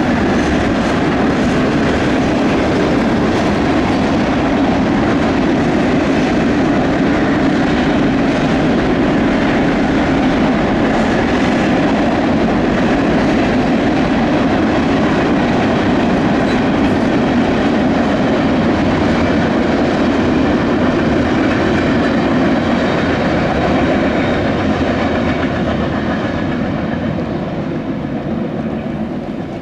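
Freight cars of a mixed manifest train rolling past: a steady noise of steel wheels running on the rails. It fades away over the last few seconds as the train passes.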